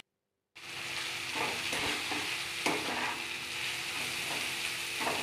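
Chopped onion, garlic and grated carrot sizzling in hot oil in a kadai, with a spatula stirring and scraping the pan several times. The sizzle cuts in suddenly about half a second in.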